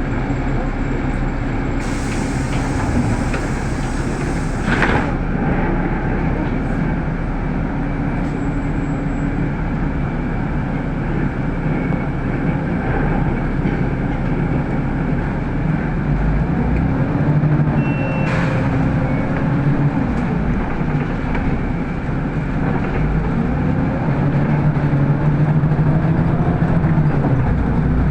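City bus heard from inside the passenger cabin while driving: steady engine and road noise, with a hiss of air for about three seconds near the start and a brief one about two-thirds of the way through. In the second half the engine note rises and falls as the bus changes speed.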